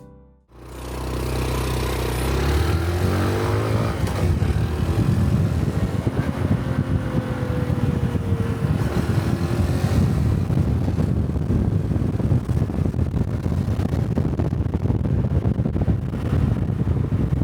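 A Honda Cub 125 cc single-cylinder four-stroke motorcycle engine runs steadily for a moment. About two seconds in it revs up as the bike pulls away, then settles into steady riding with road and wind noise on the microphone.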